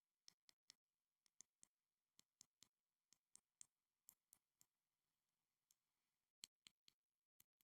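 Crisp little clicks or taps on a small school-supply item, coming in quick runs of about three roughly once a second, with a slightly longer pause before the last few.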